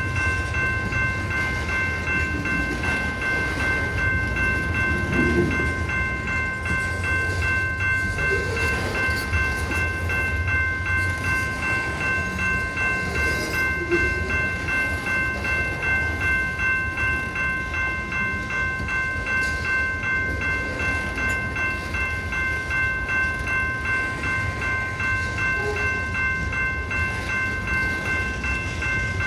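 A train rolling through a grade crossing with a steady low rumble. Over it, a crossing bell rings continuously as a high, rapidly pulsing tone.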